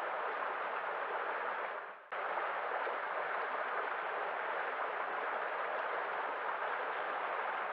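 Steady rush of running water, which fades down just before two seconds in and then cuts back in abruptly.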